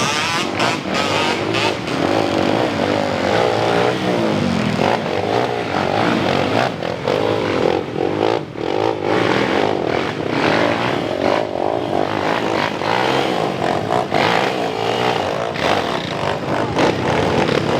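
Motocross dirt bike engines revving hard, the pitch repeatedly rising and falling as the throttle is worked, with more than one engine sounding at once at times.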